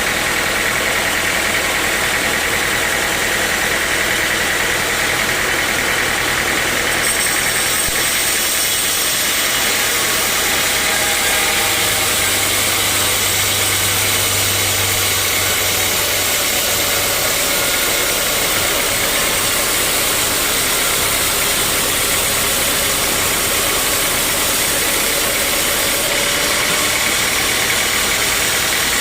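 Sawmill machinery running steadily, a loud engine-driven drone with noise across the range; a thin high whine comes in about seven seconds in.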